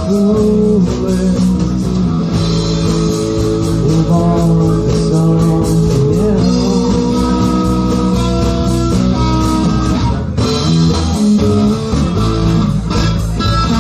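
Live rock band playing an instrumental passage with electric guitar and bass guitar over drums, no vocals.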